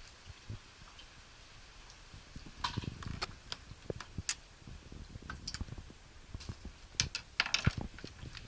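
Irregular light clicks and taps with a few short rustles, sparse at first and busier from about two and a half seconds in, as a kitten moves and plays on a hard floor.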